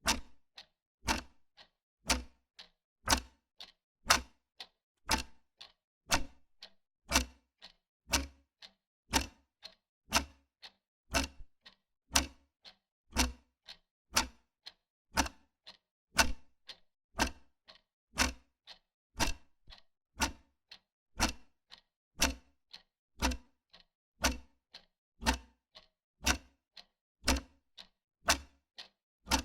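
Wall clock ticking steadily, about two ticks a second, alternating a louder and a softer tick in a tick-tock rhythm.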